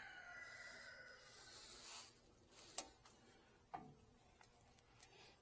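A rooster's crow trails off, falling in pitch, over the first second or two. Then come three faint, sharp clicks about a second apart, the first the sharpest.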